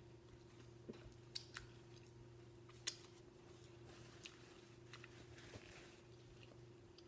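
Faint chewing of fried chicken: soft mouth clicks and smacks, a few sharper ones in the first three seconds, over a low steady hum.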